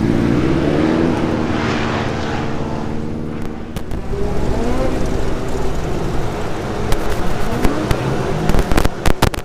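TQ speedway race cars running on the track, their engine notes rising and falling as they go round. There are several sharp crackles near the end.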